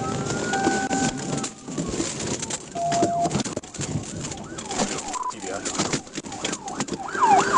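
Police siren wailing in one slow rise and fall, over a busy mix of traffic and radio-like sounds. About seven seconds in, a faster yelping siren pattern starts.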